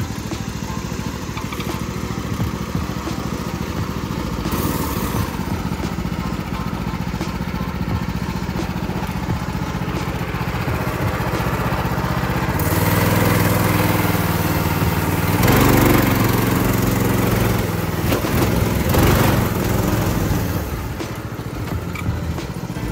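Predator 212 single-cylinder four-stroke engine driving a go-kart, running steadily and then revving harder about halfway through, its pitch rising and falling for several seconds before settling back to a steadier run.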